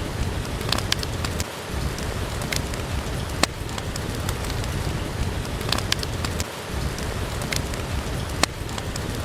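Steady rain hiss with a wood fire in a fireplace crackling, giving scattered sharp pops. The same pops recur about every five seconds, as in a short looped recording.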